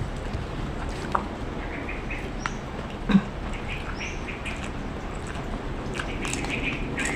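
Short high bird chirps scattered over a steady background, with one short low thump about three seconds in.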